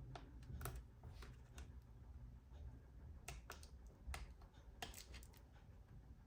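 Faint, irregular clicks and taps, about a dozen, from hands and small tools working on a laptop.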